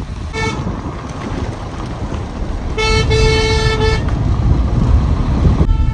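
Car horn honking over the low rumble of a vehicle driving: a short toot about half a second in, a longer steady blast about three seconds in lasting roughly a second, and another blast starting near the end.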